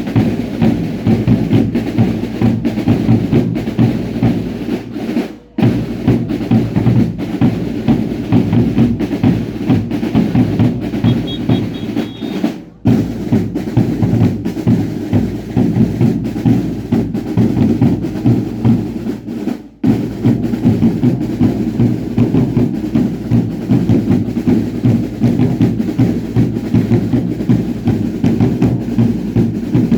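Drums of a baile indio dance troupe beating a fast, dense, continuous rhythm, with three brief breaks at about 5, 13 and 20 seconds.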